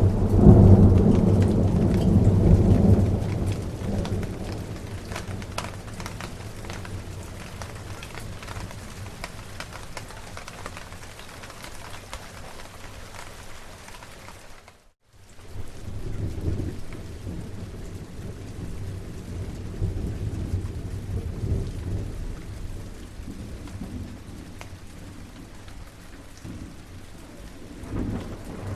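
Steady rain with rolling thunder. A loud rumble fades over the first few seconds, the sound cuts out for a moment about halfway, and a second, lower rumble builds under the rain soon after.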